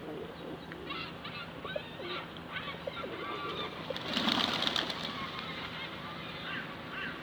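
Ducks and other waterbirds on a park lake calling, many short squeaky calls overlapping, with a louder noisy flurry about four seconds in.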